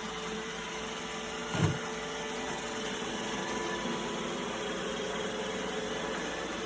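iRobot Roomba Combo i5 robot vacuum running, a steady motor whir, with a single thump about a second and a half in.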